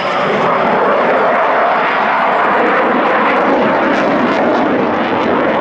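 Aircraft engine noise, a loud steady rushing sound that holds level throughout.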